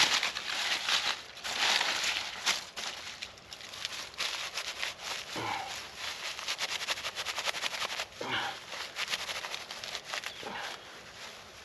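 Dry sticks and kindling being handled and broken: a busy run of crackling, rustling and knocking, with a quick rattle of clicks near the middle and a few short creaks.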